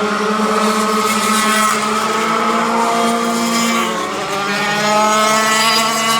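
Several two-stroke racing go-kart engines running together, their pitch rising and falling as they accelerate and back off. The engine note dips briefly about four seconds in, then climbs again.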